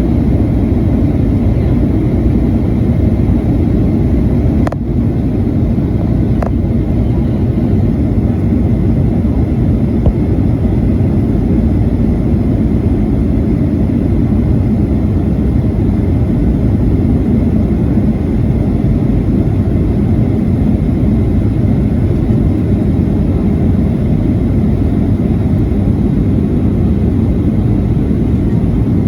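Steady low roar of a Boeing 737-800's CFM56-7B engines and airflow, heard inside the passenger cabin, with two faint clicks about five and six and a half seconds in.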